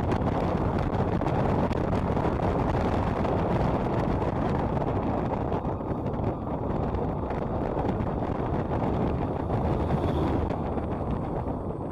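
Motorcycle riding along a road: a steady rush of wind on the microphone over the motorcycle's engine and road noise.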